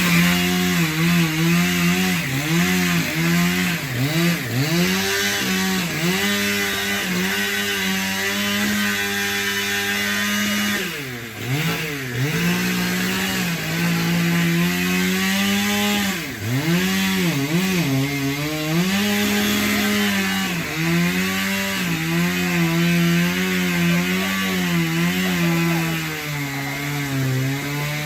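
Gas chainsaw running at high throttle, cutting through wood from the downed tree. Its engine note drops and climbs back several times as the throttle is eased and opened again, with the longest dips about a third and about three fifths of the way through.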